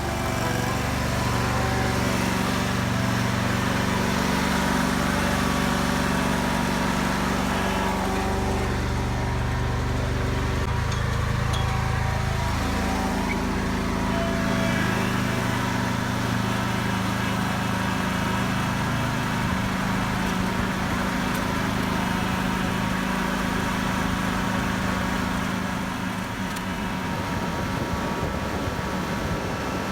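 An engine running steadily, with a low, even hum that shifts to a new pitch about twelve seconds in.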